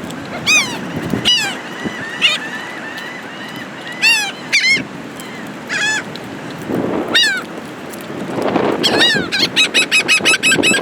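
Birds calling loudly: a string of short, sharp calls, speeding into a fast run near the end. Underneath is a steady rush of wind that swells in gusts.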